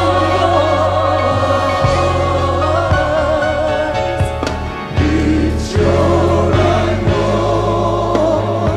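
Gospel choir singing with a band accompanying, over steady bass notes and regular beats.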